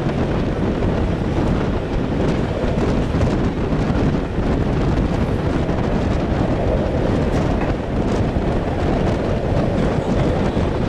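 Wind buffeting the microphone held out of the window of a moving passenger train, over the steady rumble of the coaches' wheels on the rails.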